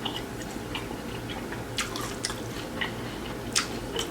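Close-miked chewing of a crunchy hard-shell taco: scattered sharp crackles of the shell breaking among wet mouth sounds.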